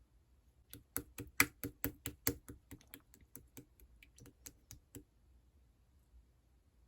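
A quick, uneven run of light clicks or taps, about five a second, starting just under a second in and stopping about five seconds in.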